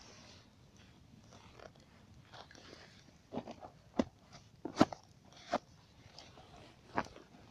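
Campfire crackling: faint background, then from about three seconds in a few sharp, irregular pops and cracks of burning wood.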